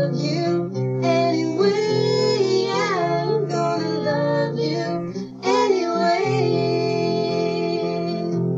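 Background music: a slow love song with a female voice singing over acoustic guitar.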